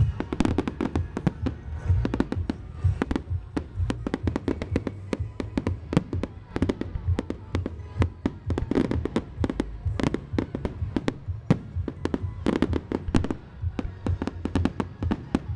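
Fireworks display in full flow: a rapid, dense run of sharp bangs and crackles, many a second, over a low rumble.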